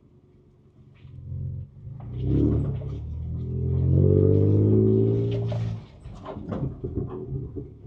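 Ford Ranger Raptor's twin-turbo V6 heard from inside the cab, revving up about two seconds in, holding for a couple of seconds, then easing off just before six seconds. Sharp knocks and rattles from the truck come through alongside it.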